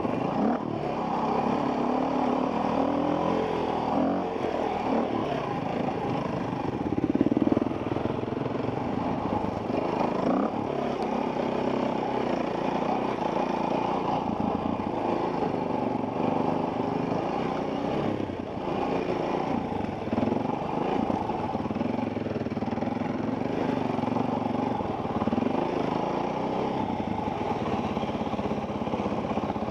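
Enduro dirt bike engine heard from the rider's helmet camera, its pitch rising and falling continuously as the throttle is worked over the trail, with occasional knocks.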